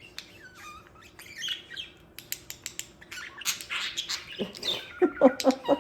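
Budgerigar chattering and squawking, with many sharp clicks between the calls. The chatter gets busier partway through and turns into a louder run of rapid, lower-pitched calls near the end.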